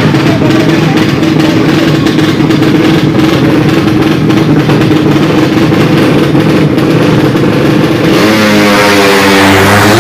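Racing drag-bike motorcycle engines revving hard and loud. A little after 8 s, a second engine note comes in, its pitch rising and falling.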